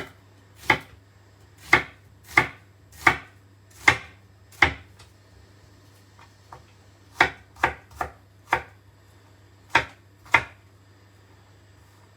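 A knife chopping a red onion on a cutting board: about a dozen separate strokes, unevenly spaced, with a pause of about two seconds halfway through.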